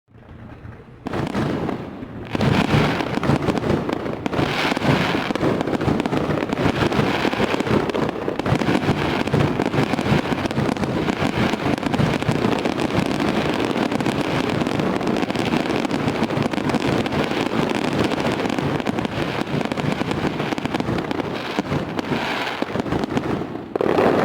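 Fireworks display: a dense, continuous barrage of crackling and bangs that starts abruptly, swells within the first few seconds, and cuts off near the end.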